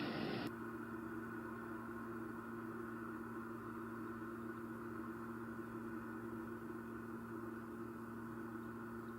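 Steady low electrical hum with faint hiss, holding a few constant tones without change; it sets in abruptly about half a second in.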